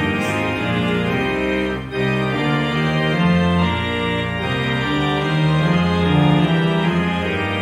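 Organ playing slow, held chords that change every second or so, with a brief dip in level about two seconds in.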